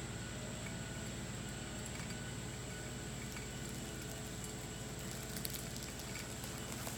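LS tractor's diesel engine running steadily at a constant pitch, with a few light clicks or knocks about five to six seconds in.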